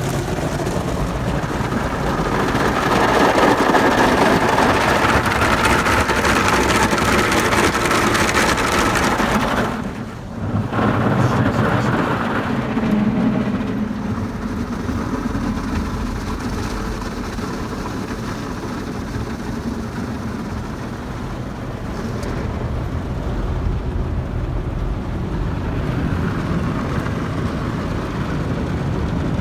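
Cloth brushes and water spray of a WashTec SoftLine 2 tunnel car wash scrubbing over a car, heard from inside the cabin as the top brush passes. A loud dense wash of noise for the first ten seconds, a brief drop about ten seconds in, then steadier and somewhat quieter.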